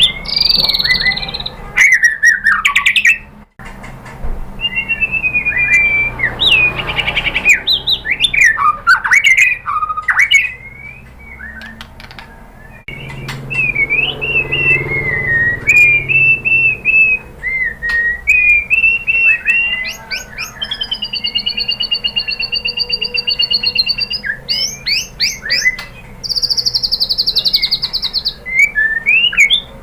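White-rumped shama (murai batu) singing: a fast, varied run of loud whistled phrases and chirps, with a long steady trill about two-thirds of the way through and a high buzzy note near the end.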